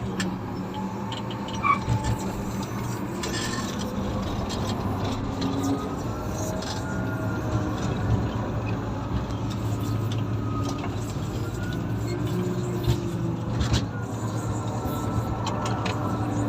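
Komatsu motor grader's diesel engine running steadily while grading, a constant low hum with a few light knocks over it.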